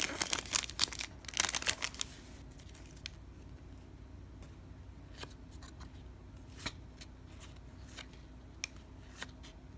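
Trading-card pack wrapper crinkling and tearing for about the first two seconds, then quiet with a few light clicks from cards being handled.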